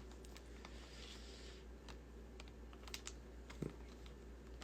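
Faint, scattered light clicks and taps, with a short low knock a little past the middle, over a steady low hum.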